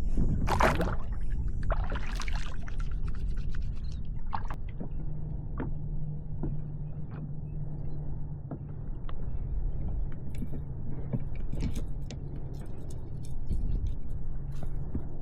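Steady wind buffeting the microphone, a dense low rumble. A couple of short noisy bursts in the first three seconds, then scattered light ticks, and a low steady hum joins about five seconds in.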